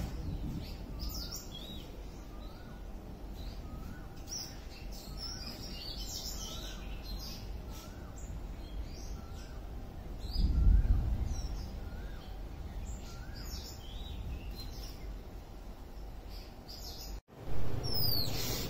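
Garden birds chirping and calling with many short, high notes, one of them repeating a soft rising note about every two-thirds of a second. A low rumble rises over them about ten seconds in. Near the end the sound cuts out for a moment and comes back with a louder burst and a falling high sweep.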